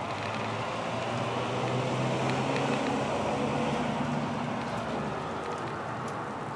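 Light rain falling at the start of a thunderstorm, a steady patter. A low hum swells about a second in and fades away after about five seconds.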